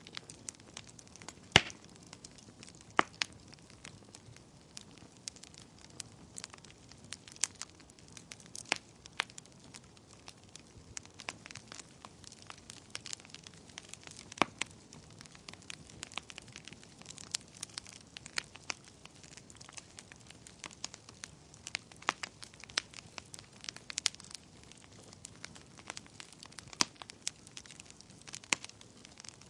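Wood fire crackling in a fireplace: a low steady hiss with frequent irregular sharp pops and snaps, the loudest about a second and a half in.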